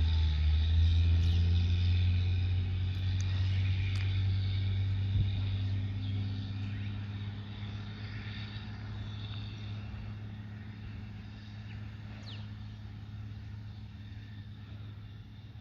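Peterbilt 379 semi truck's diesel engine running under load with a steady low drone that slowly fades as the truck moves away.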